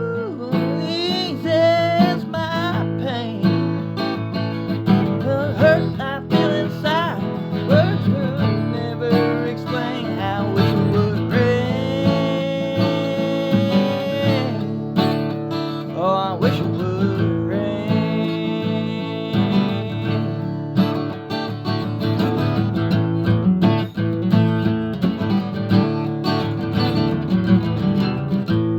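Acoustic guitar strumming the chords of a slow soul ballad, with a wordless melodic line sliding and bending over it, held on one long note about twelve seconds in.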